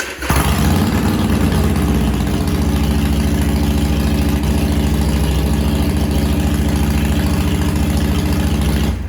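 Harley-Davidson Iron 883 Sportster's air-cooled 883 cc V-twin, breathing through aftermarket Python slip-on mufflers, starts up and idles steadily and loudly. It cuts off right at the end.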